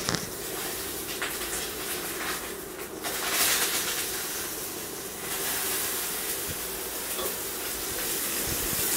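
Banana-leaf-wrapped fish parcel sizzling in hot coconut oil in a frying pan as it is turned over with a wooden spatula; the sizzle grows louder about three seconds in.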